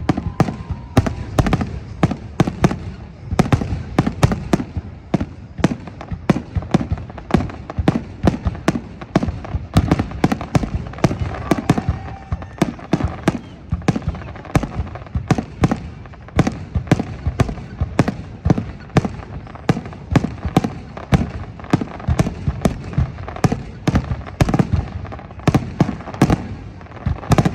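Fireworks salute: a rapid, unbroken barrage of bangs and pops, several a second.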